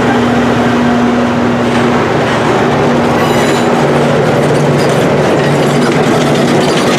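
Train running close by: a steady locomotive engine drone over the rumble of wheels on the rails, with a brief high wheel squeal about three seconds in.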